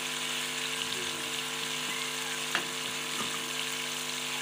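Chicken pieces frying in hot oil in a metal pot, a steady sizzle over a low electrical hum, with one sharp click about two and a half seconds in.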